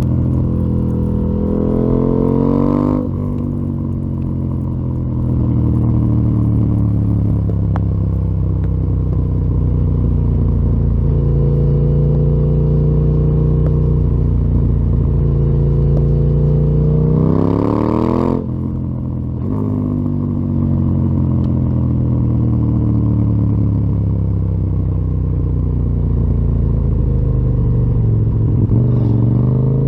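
KTM 890 Duke R's parallel-twin engine through a full Akrapovic exhaust system, heard on a ride. The engine climbs in pitch under acceleration, drops sharply at a gear change about three seconds in, and again after another climb a little past halfway. It then winds down off the throttle and picks up again near the end.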